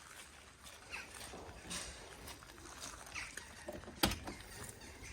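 Faint animal sounds with short chirping calls, and a single sharp knock about four seconds in.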